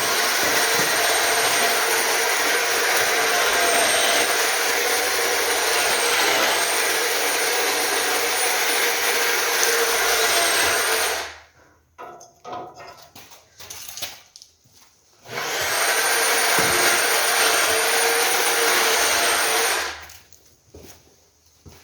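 Handheld electric power tool with a high motor whine, running in two long stretches: about eleven seconds, a pause with small knocks, then about five seconds more.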